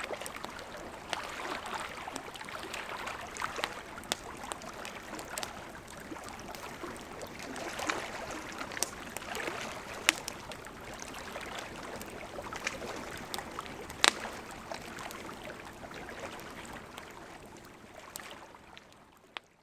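Campfire crackling and popping over the steady rush of a gently flowing river. Two sharp pops stand out, about halfway and about three-quarters through, and the sound fades out near the end.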